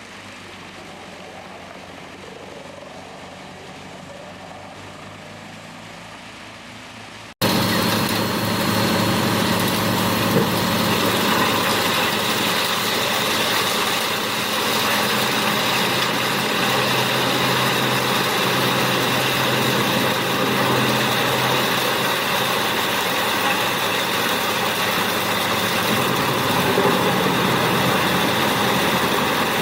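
Large wood chipper's engine and machinery running steadily. The sound cuts abruptly about seven seconds in from a quieter steady hum to a much louder, constant machine sound with several steady tones.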